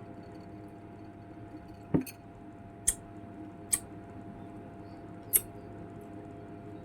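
A soft knock followed by three short, sharp clicks over a steady low hum.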